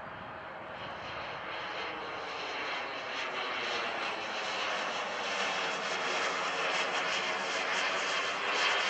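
Model jet turbine engine of a large radio-controlled scale jet in flight: a steady rushing jet noise that grows steadily louder, loudest near the end.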